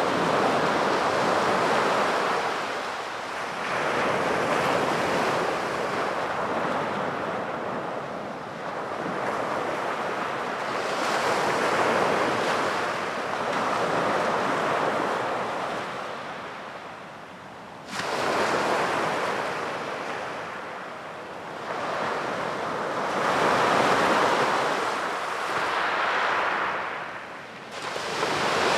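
Sea surf washing onto a beach, the rush of water swelling and falling away every few seconds as each wave comes in. About two-thirds of the way through, a wave breaks with a sudden louder surge.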